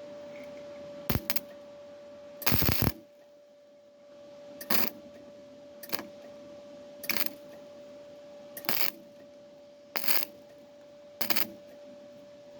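Welder laying a series of short tack welds on car body sheet steel: brief crackling bursts about every second and a bit, the second one longer. A steady faint hum runs underneath.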